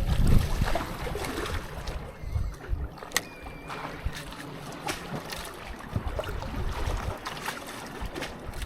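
Wind buffeting the microphone in uneven low gusts, strongest at the start, over the wash of surf, with a few small clicks.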